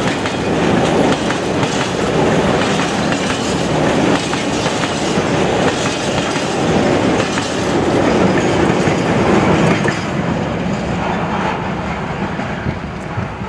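Freight train of covered hopper wagons rolling past, wheels clicking over rail joints. The noise fades from about ten seconds in as the tail of the train moves away.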